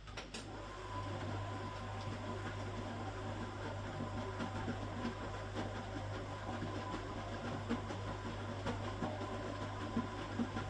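A 1969 Zanker VA520 washing machine's Hanning gear motor switches on with a click and runs with a steady low hum, and irregular light knocking and clattering rides over it.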